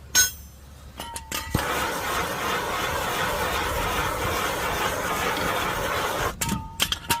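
A power tool runs steadily for about five seconds, switching on and off abruptly, during bodywork repair on a damaged car rear end. Sharp metal clinks come just before it starts and again after it stops.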